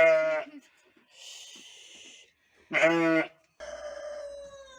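Chios sheep bleating: two loud bleats about three seconds apart, then a fainter, longer bleat falling in pitch near the end.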